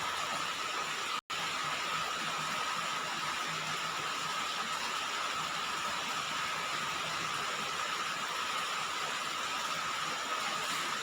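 Steady rain falling on a roof, an even patter with no let-up, with one very brief cut-out about a second in.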